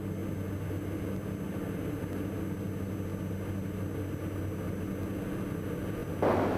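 The twin Austro AE300 diesel engines of a Diamond DA42 NG running steadily in flight, a continuous drone heard in the cockpit. A hiss comes up near the end.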